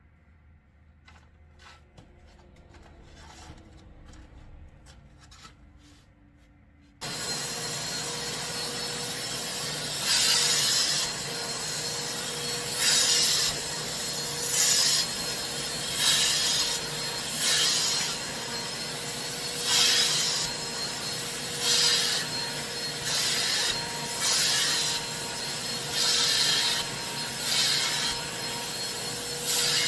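A carpet cleaning machine switches on abruptly about seven seconds in and then runs steadily, with a steady hum. Louder surges come about every two seconds, typical of a cleaning wand being worked in repeated strokes.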